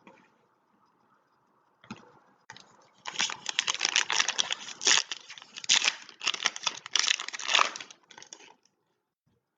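Foil trading-card pack wrapper being crinkled and torn open: dense crackling for about five seconds starting about three seconds in, after a couple of soft handling clicks.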